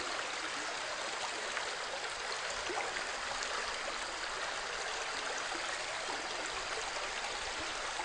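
A steady, even rushing noise that holds unchanged throughout, the sound of running water or wind.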